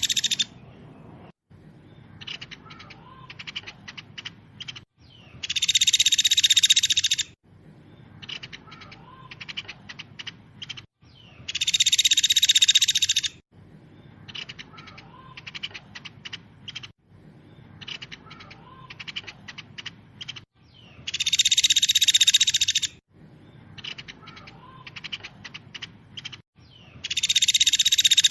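Songbird tutoring (masteran) recording of a fast, dense song. Loud two-second bursts of rapid high trilling recur about every six seconds, four times, with quieter quick chips and ticks between them.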